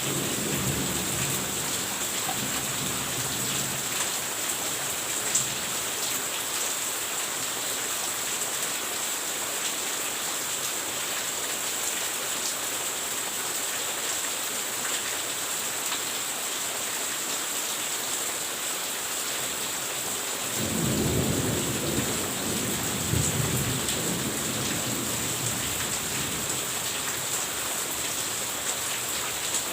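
Steady rain falling, with thunder rumbling: a low rumble fading just after the start and a louder one rolling in about twenty seconds in and lasting a few seconds.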